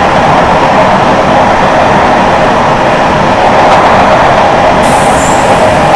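Passenger train running at speed, heard from on board: a loud, steady rush of wheel and wind noise.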